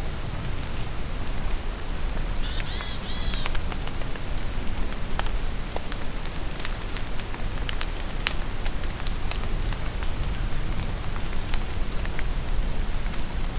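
Steady rain falling in a forest, with drops tapping throughout. About two and a half seconds in, a bird gives a quick series of high repeated notes for about a second, and short faint high chirps come now and then.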